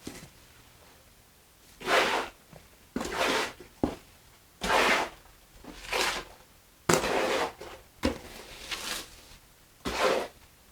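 Wet mortar being mixed by hand, a mixing tool scraping through it in separate strokes about once a second. The mix is too soupy.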